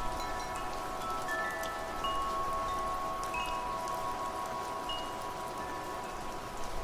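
Wind chimes ringing, several metal tones struck one after another and sustaining over a steady patter of rain.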